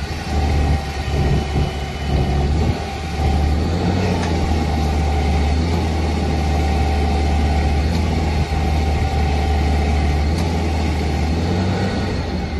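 Nissan engine of an LPG forklift running, uneven for the first few seconds and then steady.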